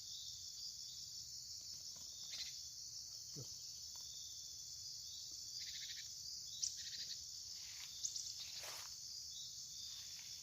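Steady high-pitched insect chorus, with a few short chirps and trills between about six and nine seconds in.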